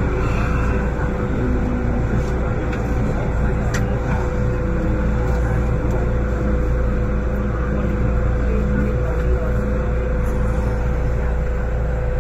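MTR Tsuen Wan Line M-train running at speed: a steady, loud rumble of wheels on rail with a steady hum from the train's running gear and a few faint clicks.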